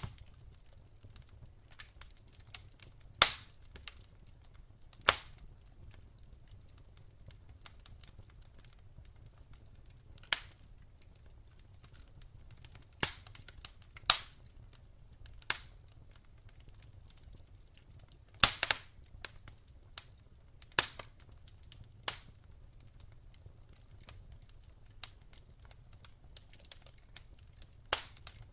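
Campfire crackling: wood snapping and popping in sharp cracks at irregular intervals, a loud crack every few seconds with smaller ticks between, over a faint low rumble of the fire.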